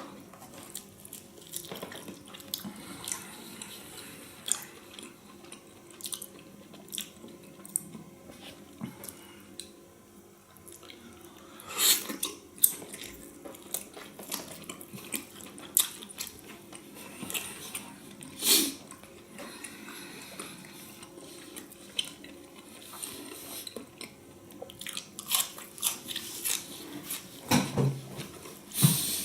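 A person chewing and biting beef tongue, with many small mouth clicks and a few louder bites, the loudest near the end.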